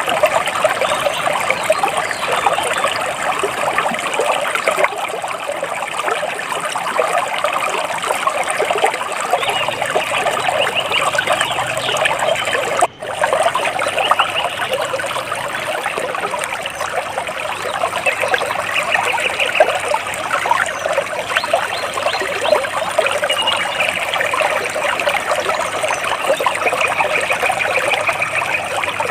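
Water splashing and trickling steadily, with birds calling now and then in short repeated phrases. The sound cuts out for an instant about halfway through.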